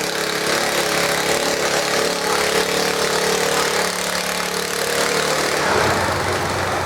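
Garden tractor engine running steadily; about five and a half seconds in its note changes and drops lower.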